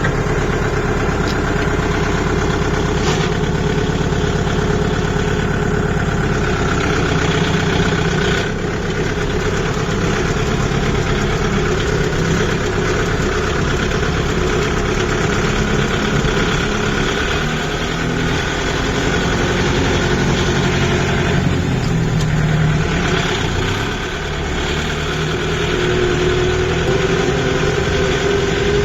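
Kubota MU 5502 tractor's four-cylinder diesel engine idling steadily at about 1100 rpm.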